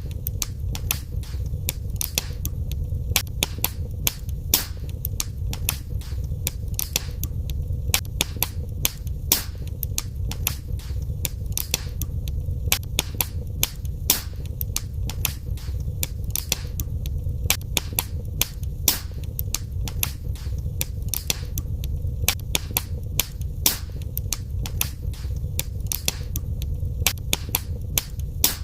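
Fire crackling in a fireplace: sharp pops and snaps, several a second, some louder than others, over a steady low rumble.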